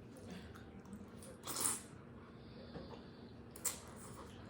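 Quiet eating sounds at a spaghetti dinner table: a brief wet, noisy sound about a second and a half in, and a single sharp click near the end.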